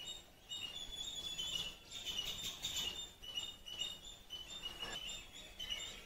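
Small birds chirping: a steady run of short, high chirps at a couple of close pitches, several a second and overlapping.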